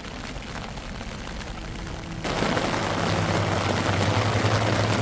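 Rain beating on a tent, with a sudden jump about two seconds in to much louder, denser drumming. A low steady hum comes in beneath it.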